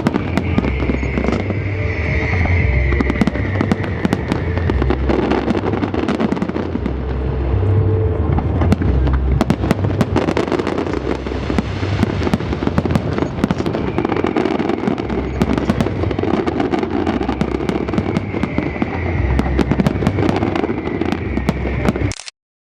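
Fireworks display going off continuously: a dense crackle of many small pops over repeated deep booms of bursting shells. The sound cuts off suddenly just before the end.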